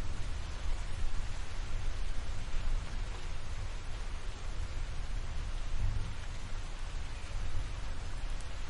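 Steady rain of a thunderstorm, an even hiss of falling rain with a continuous low rumble beneath it.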